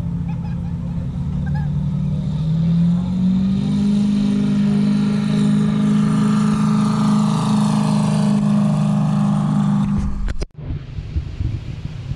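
Drag car's engine at full throttle running down the strip, loud and steady, stepping up in pitch about three seconds in. The sound cuts off abruptly about ten seconds in, then a quieter engine sound carries on.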